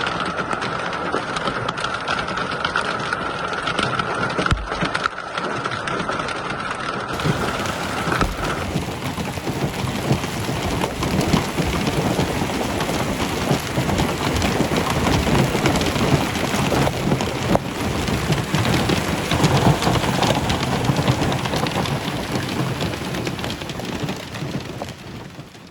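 Rain pouring down steadily. A steady high tone runs through the first eight seconds or so, and the rain sound changes character after about seven seconds.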